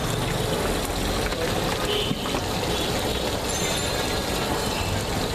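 Continuous din of a busy roadside: steady traffic noise with a murmur of voices in the background.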